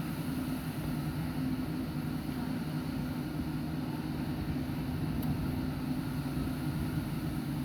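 Boom truck's engine running steadily with a low hum, stepping up in level right at the start.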